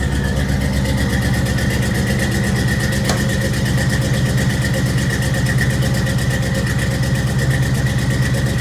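Cammed Chevrolet 305 small-block V8 in a 1983 K20 pickup idling steadily on the choke shortly after a cold start, with an even rhythmic exhaust pulse and a thin steady whine above it. One sharp tick about three seconds in. The engine holds its idle in the cold; it sounds pretty good and doesn't look like stalling.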